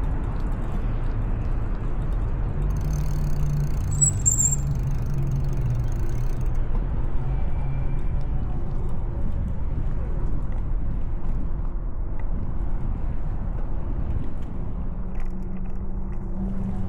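Steady wind rush over the microphone and street noise during a bicycle ride in city traffic. A passing motor vehicle's engine hum rises and fades from about three to six seconds in.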